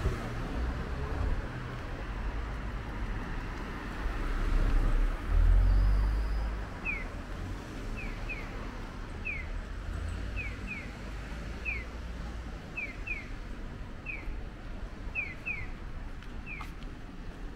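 Outdoor street ambience with a low rumble that swells about four to six seconds in. A bird gives short falling chirps, often in quick pairs, through the second half.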